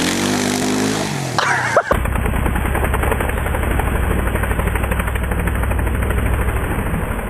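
Dirt bike engine in mud, its pitch falling over the first two seconds as it bogs down. After an abrupt cut it runs on with a steady, fast chugging.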